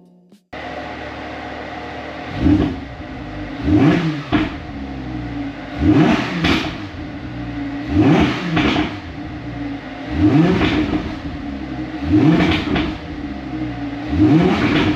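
Car engine running steadily while the throttle is blipped over and over, a rising rev about every two seconds.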